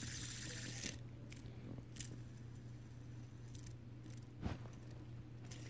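Faint clicks of a plastic fidget spinner being handled, the sharpest about four and a half seconds in, over a steady low hum.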